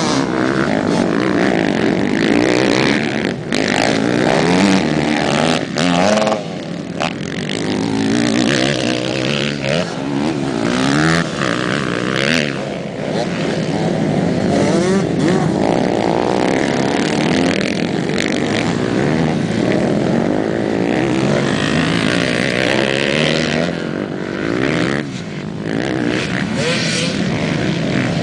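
Motocross dirt bike engine revving up and easing off over and over, its pitch rising and falling with the throttle, with short drops in level as the throttle is shut.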